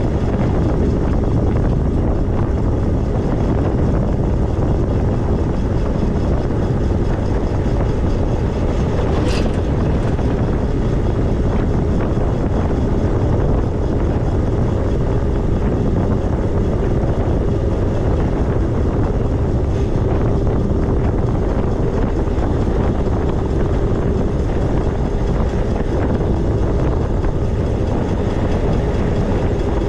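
Steady, loud wind rush on the microphone from riding an e-bike, with a faint steady whine beneath it and one brief high squeak about nine seconds in.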